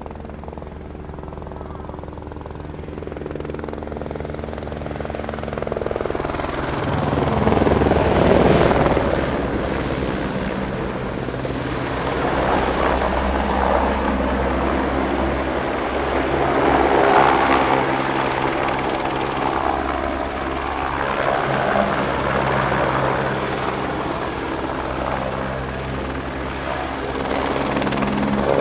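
A steady engine drone: a low hum of several even tones under a rushing noise that swells about seven seconds in and stays loud.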